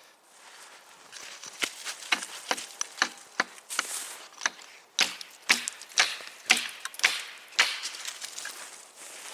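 Firewood being chopped with a hand blade: a run of sharp chopping strikes, about two a second, that stops shortly before the end.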